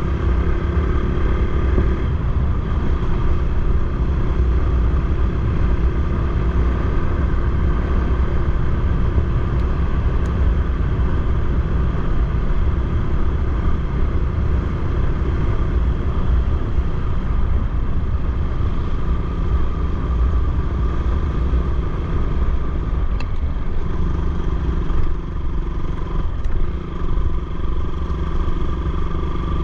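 Motorcycle engine running steadily on the move, its note holding even, with a brief unsteady dip in level a little before the end.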